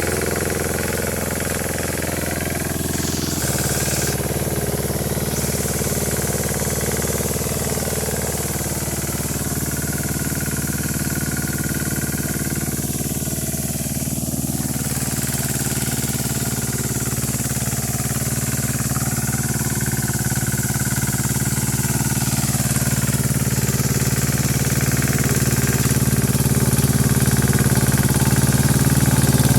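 Yağmur YET 510 rotary tiller engine running steadily with a putt-putt note. Its engine speed changes about three seconds in, and it grows a little louder near the end.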